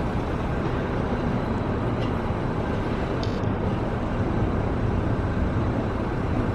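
Edinburgh tram passing along the street, a steady low rumble, with a brief high squeak about three seconds in.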